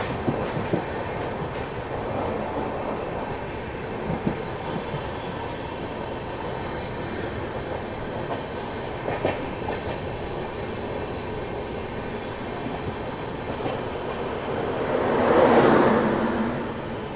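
Express train running along the track, heard from on board: a steady wheel-and-rail rumble with occasional clacks and a brief high-pitched wheel squeal about four seconds in. The rumble swells louder near the end and then eases.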